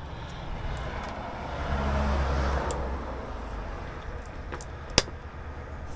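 Chevrolet 350 small-block V8 idling, set to run a little rich on its Edelbrock carburetor. It swells briefly about two seconds in, and a single sharp click sounds near the end.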